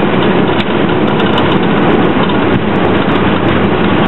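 Airbus A321 rolling out after touchdown, heard from the cockpit: a steady, even noise of engines and airflow with no change in loudness.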